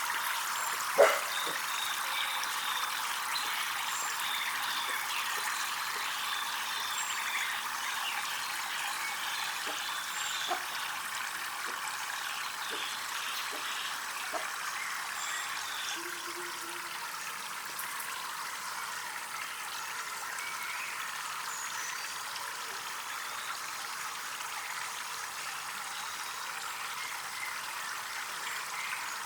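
Water trickling and running steadily, with a sharp knock about a second in and a few faint ticks.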